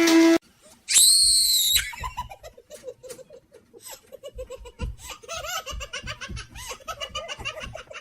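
A steady hum cuts off just after the start; about a second in comes a loud, high squeal, followed by a long run of quick, rhythmic laughter from a baby or small child.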